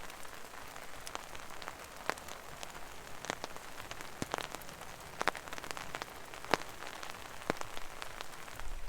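Steady rain, with individual heavier drops landing irregularly, a few a second, as sharp taps over the hiss.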